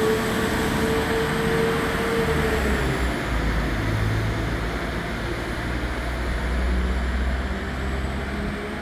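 Passenger train running at a station, a steady low rumble and hum with a steady whine that fades out about three seconds in.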